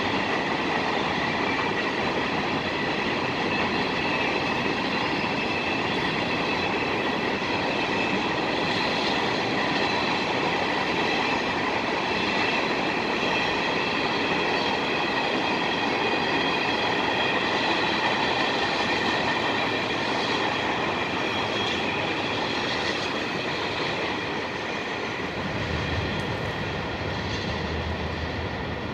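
Train rolling past close by, its cars' wheels clattering over the rails with a steady high squeal. Near the end the noise eases a little and a low drone comes in.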